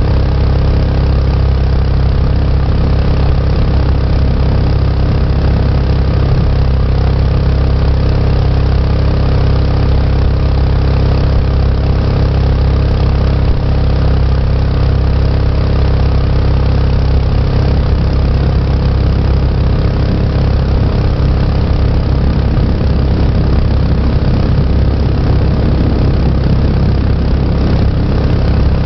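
Mokai jet boat's small engine running steadily, with a continuous rushing noise over it and no change in pitch.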